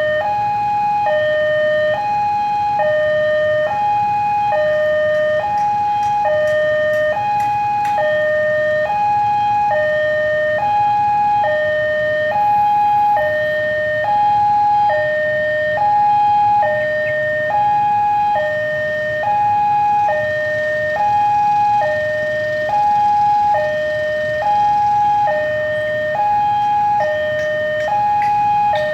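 Railway level-crossing warning alarm sounding: an electronic two-tone signal alternating steadily between a lower and a higher note, each held about a second, which warns that a train is approaching. A low steady rumble lies underneath.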